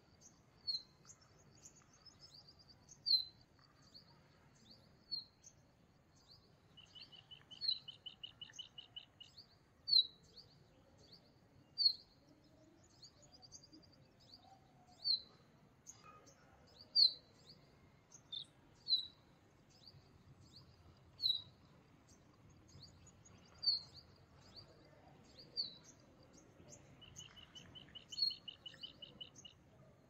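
Small birds calling: short, sharp chirps every second or two, with a rapid trill of even notes about a quarter of the way in and another near the end.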